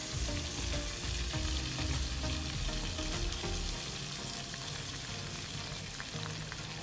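Finely chopped onion sizzling steadily in hot ghee just after being dropped into the pan, the start of frying the onion for a curry gravy.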